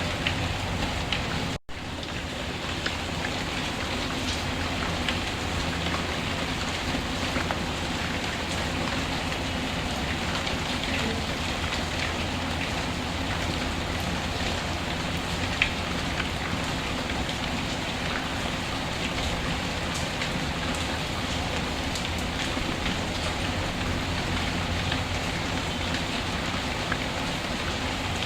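Steady rain falling, mixed with the small crackles of a fireplace fire. The sound drops out for an instant about a second and a half in.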